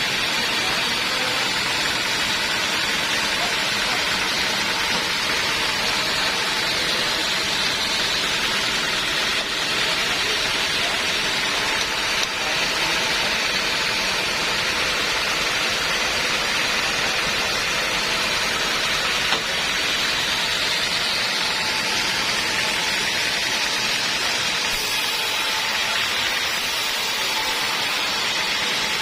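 Homemade band sawmill running steadily, its blade sawing through a teak log with a constant, unbroken mechanical noise.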